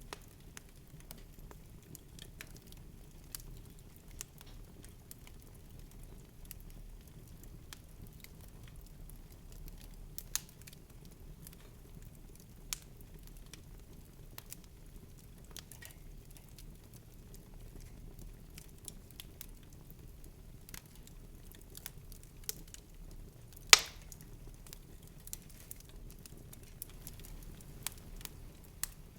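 Sparse crackling clicks and pops over a low, steady rumble, with one much louder snap about three-quarters of the way through.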